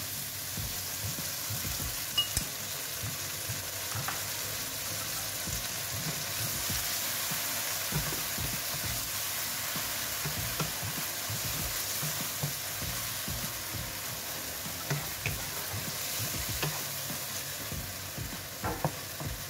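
Tomato and egg stir-fry sizzling steadily in a non-stick pan with its sauce just added, while a wooden spatula stirs and scrapes through it, tapping the pan now and then.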